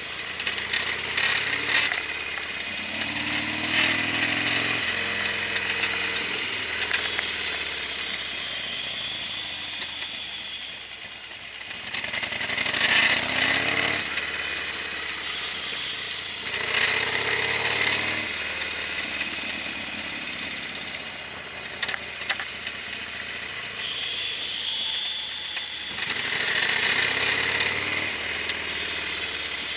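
Harley-Davidson Sportster XL1200R's air-cooled V-twin running under way, rising in pitch several times as it is revved up through the gears, with steadier running between.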